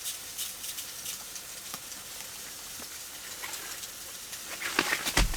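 Wood stove fire crackling quietly inside a hot tent, a steady hiss with scattered light ticks. A few sharp knocks come near the end.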